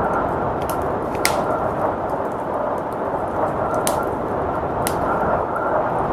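Wood fire crackling, with sharp pops at irregular intervals, over a steady low rush of blizzard wind.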